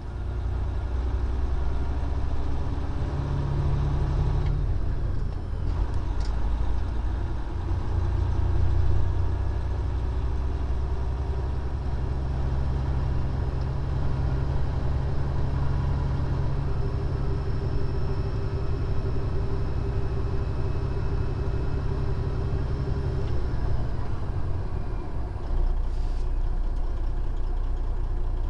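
Heard from inside the cab, the diesel engine of a 2014 Freightliner Columbia glider semi truck drones steadily along with road noise while descending a long steep grade. The engine note shifts about four seconds in and again about three-quarters of the way through.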